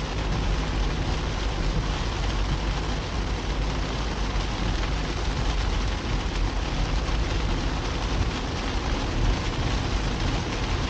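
Car driving in the rain: a steady rush of rain, wet-tyre and engine noise with a strong low rumble.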